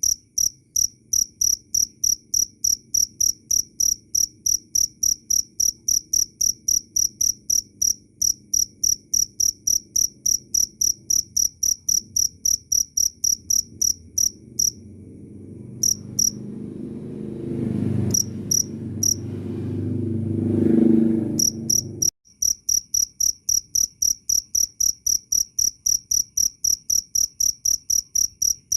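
A cricket chirping loud and clear in a steady, even rhythm of high chirps, about three a second. Midway the chirps falter while a low rumble swells, and they resume after the rumble cuts off suddenly.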